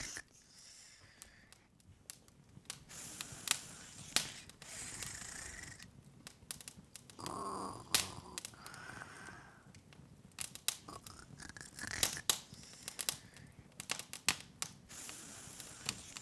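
Open wood fire crackling: irregular sharp pops and snaps with a soft hiss between them.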